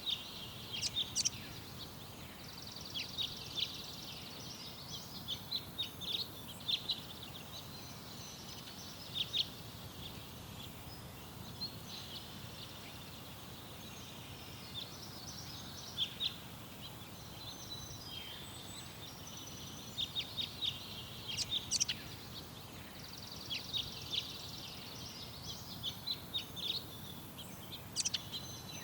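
Small garden birds chirping and twittering in short, scattered bursts of high-pitched calls, over a steady low background rumble.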